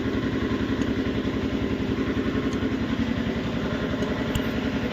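An engine idling steadily with an even, rapid pulse, and a faint click about four seconds in.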